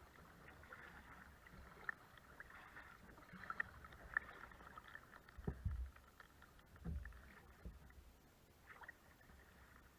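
Kayak being paddled: faint paddle dips and water splashing and dripping, with scattered small clicks and a couple of low thumps, about five and a half and seven seconds in.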